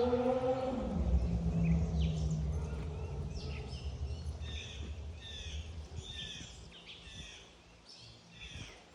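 An engine hum rising in pitch, then settling into a low rumble that fades away over the first few seconds, typical of a passing vehicle. A bird then sings a series of evenly repeated high chirps.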